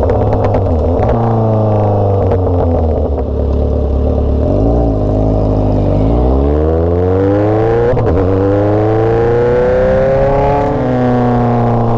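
Motorcycle engine running under way. Its pitch climbs, drops sharply at a gear change about eight seconds in, climbs again and drops once more near the end.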